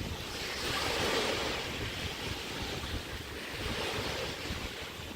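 Small bay waves breaking and washing up a sandy beach, two surges about three seconds apart, with wind buffeting the microphone.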